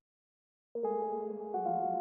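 Silence, then about three-quarters of a second in a soft ambient keys chord from an Omnisphere software synthesizer starts and sustains, moving to a different chord about a second and a half in.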